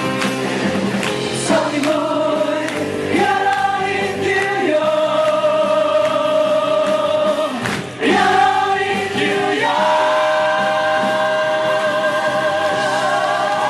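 Musical theatre cast singing together as a chorus over musical accompaniment, holding long notes with vibrato; the sound dips briefly about eight seconds in, then comes back and settles into a long held chord.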